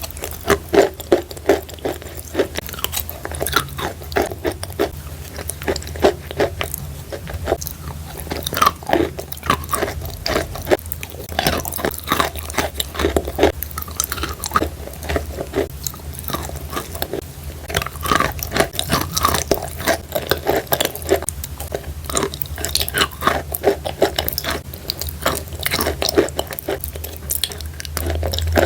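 Close-miked biting and chewing of chalk coated in clay paste: a continuous run of irregular dry crunches, with a steady low hum underneath.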